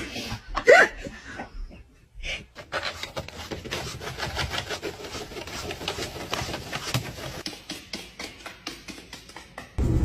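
A dog panting fast in a rapid, even rhythm. A short pitched yelp-like sound comes in the first second, and a loud steady low rumble starts just before the end.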